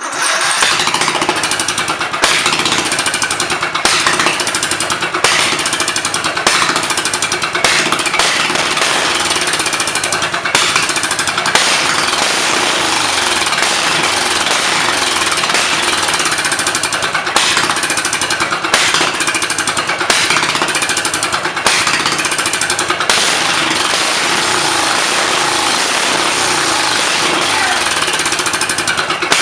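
Murray riding mower's engine running with no exhaust, straight off the header: a loud, rapid, rattling exhaust bark. The engine runs a little rich.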